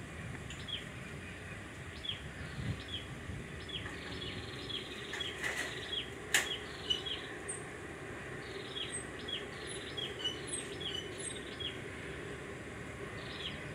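Small birds chirping, many short, sharp, falling chirps repeated irregularly over steady outdoor background noise, with a single sharp click about six seconds in.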